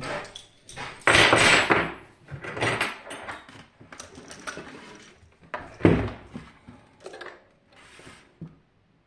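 Metal parts and tools clattering and scraping as a hot-water heater is taken apart. There is a long scrape about a second in, shorter rattles after it, and a sharp knock near six seconds.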